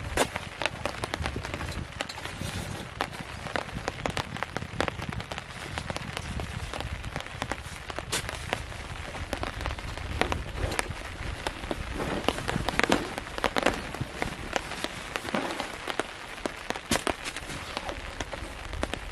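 Steady rain with many irregular, sharp drop strikes, some louder than others.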